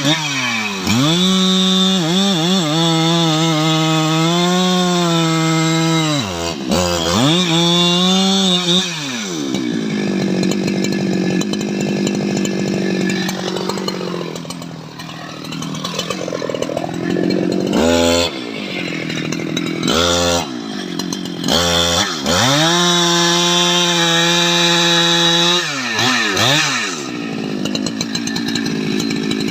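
Large STIHL MS 881 two-stroke chainsaw running hard at high revs. Its pitch sags and climbs back several times, with a lower, rougher-running stretch in the middle and a few short throttle blips.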